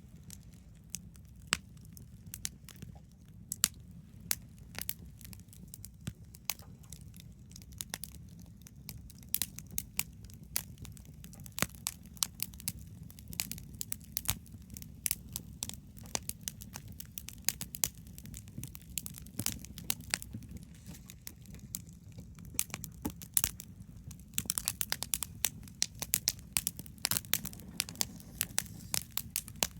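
Wood campfire crackling, with irregular sharp pops and snaps over a low steady rumble. The crackling gets busier near the end.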